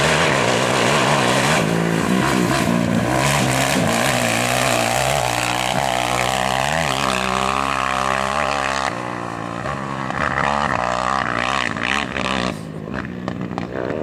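A competition engine running hard on a gravel rally stage. Its pitch rises and dips as it revs through the gears, over a steady rush of noise. It gets quieter about two thirds of the way in, swells again briefly, then fades near the end.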